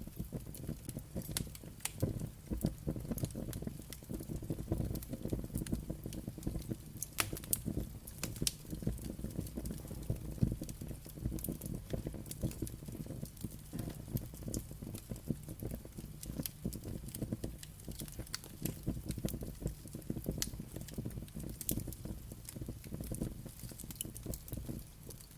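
Wood fire crackling: a dense run of small pops over a low steady rumble, with a few louder, sharper snaps standing out.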